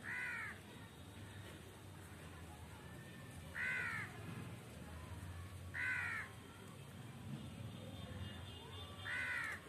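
Parrot giving four short, harsh squawks a few seconds apart.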